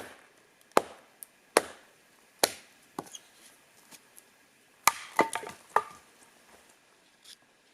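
Firewood being chopped: a series of sharp wooden strikes at uneven spacing, several in the first three seconds and a quick cluster about five seconds in.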